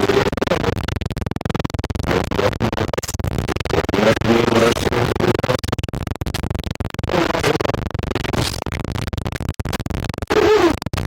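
Harsh, choppy scratching sounds, constantly broken up, with short pitched fragments like a stuttering, glitched recording.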